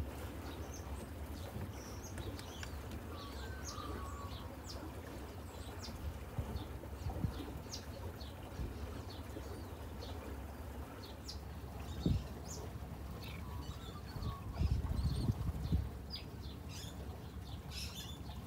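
Small birds chirping: many short, high calls scattered throughout, over a steady low rumble. There is a sharp knock about twelve seconds in, and the low rumble swells briefly near the end.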